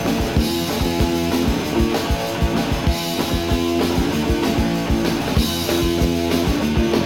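Punk rock band playing live without vocals: distorted electric guitar chords, bass and a drum kit keeping a steady fast beat.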